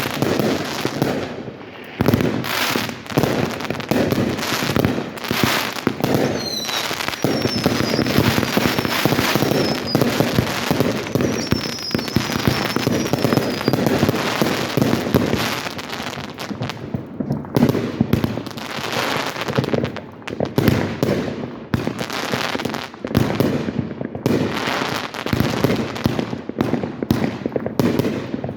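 Fireworks show: a continuous barrage of aerial shell bursts, booms and crackling, with a few whistling shells.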